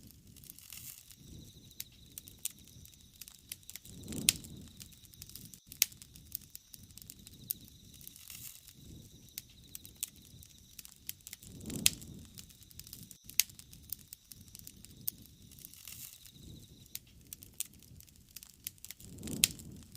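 Wood fire crackling, with many sharp pops and snaps at irregular times. Three times, low rushing swells of flame rise and fade.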